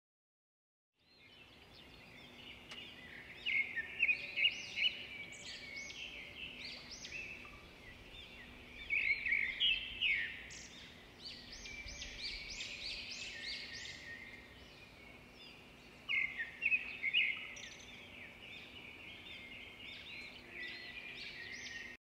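Songbirds chirping and singing: quick high chirps and trills starting about a second in, with louder clusters of calls about four, ten and seventeen seconds in, over a faint steady low hum.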